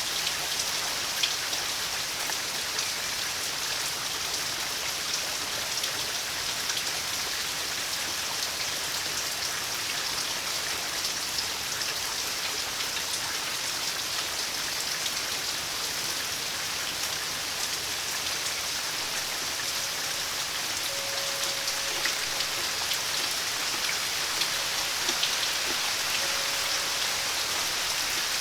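Steady rain falling, with scattered drops ticking on a surface. A faint steady tone joins in about two-thirds of the way through.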